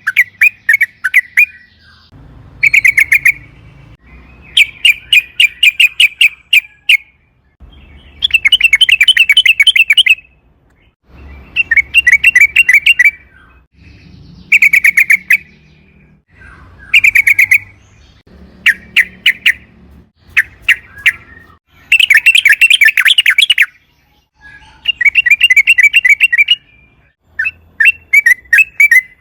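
Yellow-vented bulbul (trucukan) singing in bursts of rapid, chattering notes, one quick phrase after another with short pauses between.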